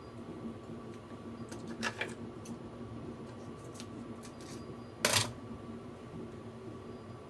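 Light clicks and taps of utensils and dishes while dumplings are plated, with one louder clack about five seconds in, over a steady faint hum.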